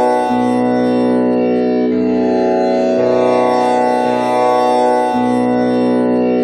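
Tanpura drone tuned to B (Sa) with komal Ni, its strings plucked one after another in a repeating cycle so that a new low string enters about every one to two seconds over the sustained, ringing overtones.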